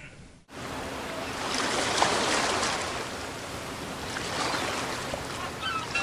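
Running water, a steady rushing with no distinct strokes, starting abruptly about half a second in. A few short high chirps sound near the end.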